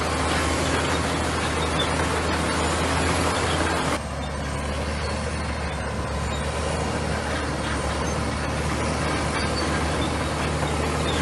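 Komatsu bulldozer's diesel engine running steadily under work, with an abrupt change in the sound about four seconds in.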